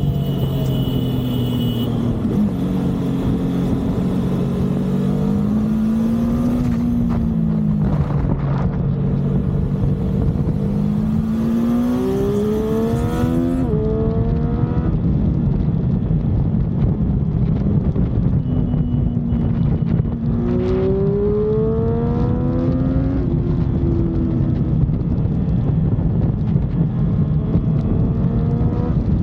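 Motorcycle engine heard from on board, pitch rising and falling with the throttle; twice it climbs in steps as the bike accelerates through the gears, over steady wind and road noise.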